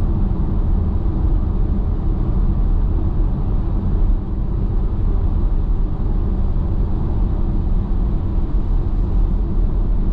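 Steady tyre and road noise inside an electric car's cabin at highway speed, a low, even rumble with no engine note.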